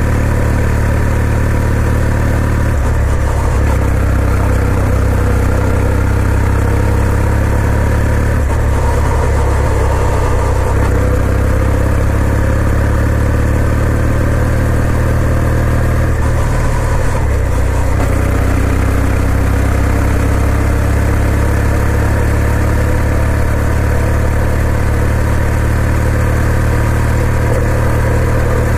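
2020 Kawasaki W800's air-cooled 773 cc parallel-twin engine running steadily, its note shifting briefly a few times.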